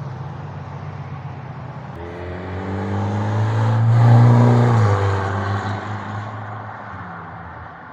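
A car driving past with its engine running: the engine note grows louder to its loudest about four seconds in, drops in pitch as the car goes by, then fades away.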